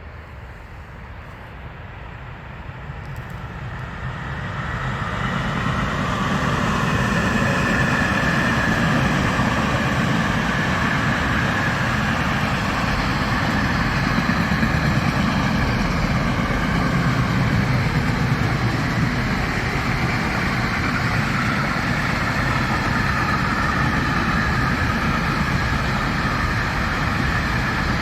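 A train approaching and running past close by: the rolling noise of wheels on rail builds over the first five or six seconds, then holds loud and steady as the train goes by.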